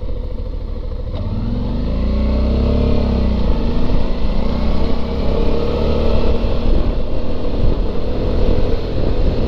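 Suzuki V-Strom 650's V-twin engine pulling the motorcycle along, its pitch rising and then falling about two to three seconds in, then running steady and somewhat louder.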